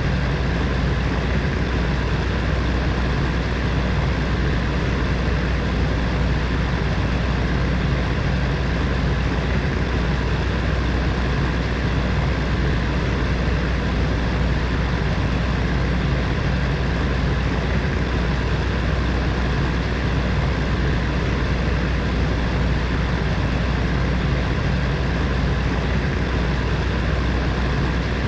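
Heater fan running steadily: an even whoosh of moving air with a deep low rumble and a faint hum.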